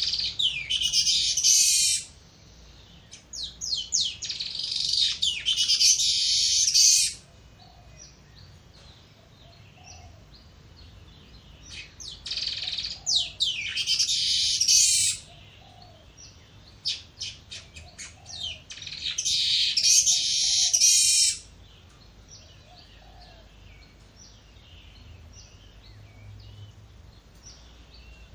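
Weaver birds singing: four bursts of a few seconds each, rapid ticking notes running into a dense, high, buzzy chatter that stops abruptly, with faint short chirps in the gaps.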